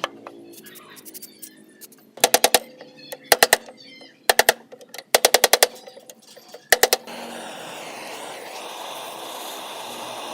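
Workshop tool work on an old fan: five short bursts of rapid sharp knocks, several strikes in each, followed about two-thirds through by a steady rough noise from a running tool, over faint background music.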